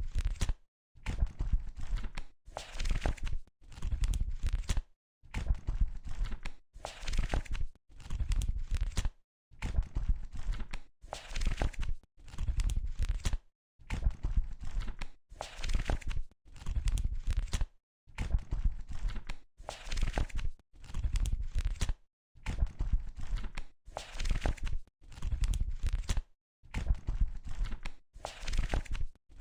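Pages of a book being turned one after another, each turn a short papery rustle with a soft thud, at roughly one a second with brief silences between.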